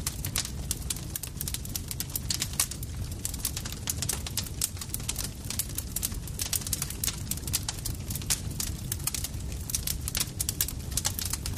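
Campfire crackling: irregular sharp pops and snaps, several a second, over a steady low rumble of burning wood.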